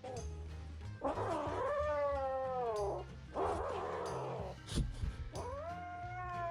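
A cat yowling: two long drawn-out calls that slide down in pitch, with a harsher, raspier cry between them.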